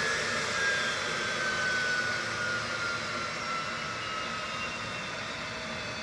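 Cessna Citation Bravo's twin Pratt & Whitney Canada PW530A turbofans winding down, their whine gliding slowly lower and the noise easing off, typical of the engines spooling down after shutdown at parking.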